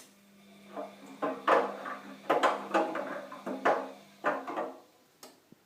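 Bosch washing machine in the last moments of its programme: a steady low hum with a run of irregular clunks and rattles, all dying away about four to five seconds in as the cycle ends.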